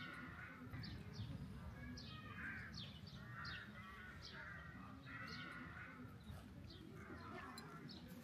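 Faint outdoor ambience of birds calling and chirping, short calls repeating about once a second, over a low steady rumble.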